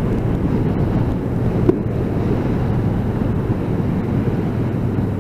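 Wind rushing over a motorcycle crash helmet, with the bike's engine running steadily underneath, heard through a mic fitted inside the helmet while cruising.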